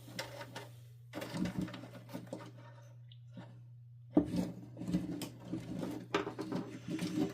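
Irregular rustling and clicking of wires and plastic parts being handled while they are pulled through a canister vacuum cleaner's housing. The handling comes in two stretches, with a short pause between, over a low steady hum.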